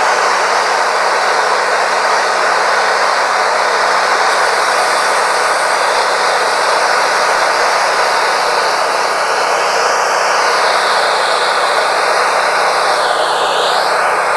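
Wood-Mizer LT40 Wide band sawmill running, its blade sawing through a yellow pine cant with a steady, loud noise. A high note in the noise dips and comes back up near the end.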